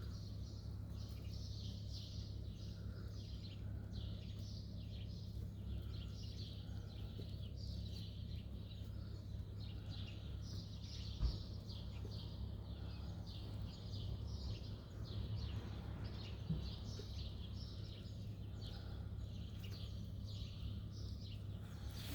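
Small birds chirping in a dense, continuous chatter over a steady low city hum, with a single sharp knock about eleven seconds in.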